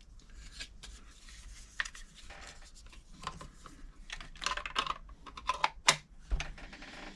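Irregular light clicks and taps of small metal parts and tools being handled on a sewing machine, with no steady rhythm.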